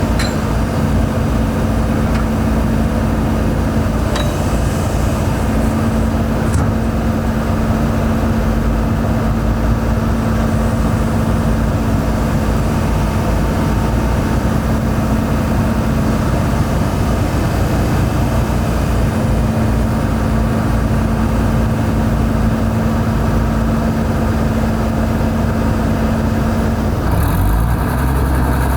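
Heavy diesel engine of construction machinery running steadily with a constant drone and low rumble; the sound changes abruptly near the end to a different, deeper engine sound.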